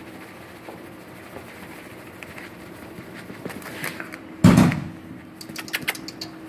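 A firework going off outside, heard muffled from inside the house as one deep boom about four and a half seconds in, followed by a quick run of crackling pops.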